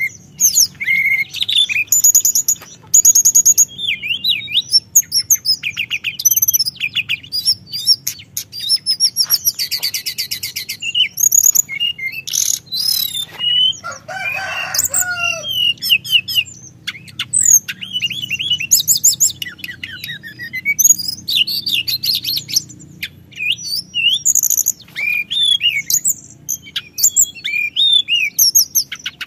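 Teledekan gunung songbird singing in long, continuous rolls: a fast, varied stream of high chirps, whistles and rapid trills, with a lower, fuller phrase about halfway through. A faint steady hum lies underneath.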